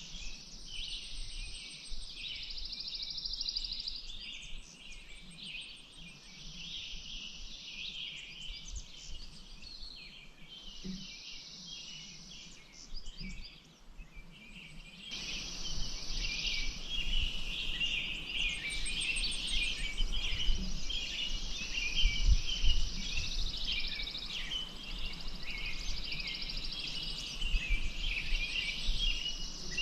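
Many small birds chirping and calling together over a steady high hiss that comes and goes in stretches of a few seconds. About halfway through the background noise grows louder and fuller.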